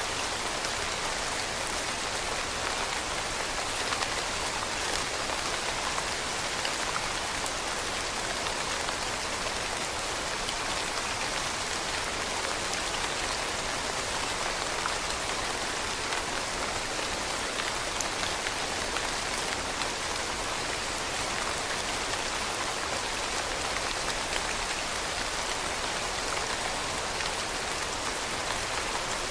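Steady rain falling on leaves, an even hiss with scattered small drop patters.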